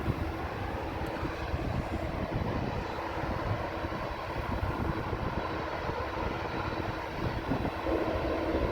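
Jet airliner's engines during a takeoff from the runway, a steady rumble that grows a little louder near the end.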